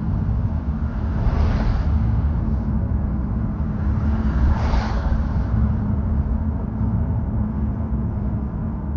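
Car traffic road noise: a steady low rumble, with two brief swells of tyre hiss, one about a second and a half in and one near five seconds.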